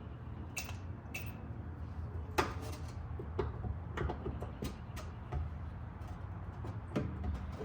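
Scattered light clicks and knocks of metal parts and tools being handled while a part is test-fitted, over a steady low hum.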